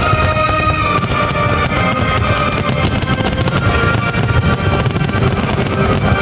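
Fireworks display going off continuously, dense low booms and many sharp crackles, mixed with loud music holding sustained tones.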